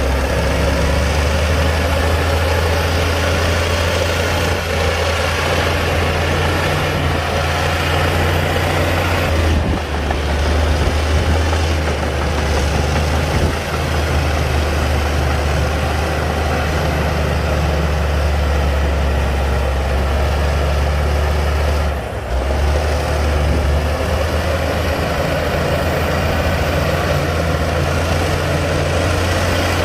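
Komatsu D60-P bulldozer's diesel engine running steadily with a deep, even hum, with brief dips about 10 and 22 seconds in.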